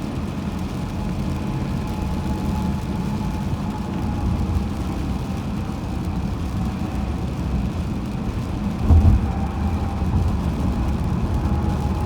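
Steady low road and engine noise from a car driving on a highway, with a brief low thump about nine seconds in.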